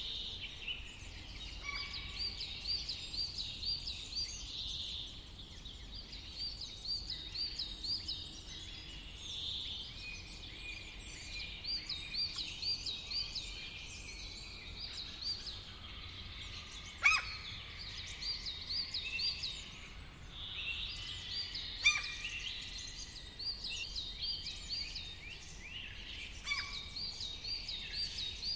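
Several woodland birds singing together in a summer forest. One bird repeats a quick run of upswept notes again and again, while others add chirps and trills over it. Two sharp, loud single calls cut in about two-thirds of the way through.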